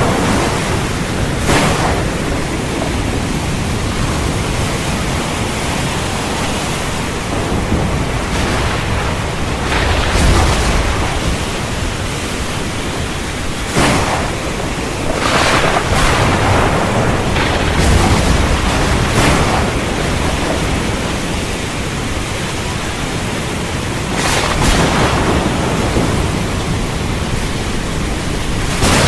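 Heavy rain falling steadily in a thunderstorm, with sharp thunder cracks several times and low rolling rumbles of thunder in between.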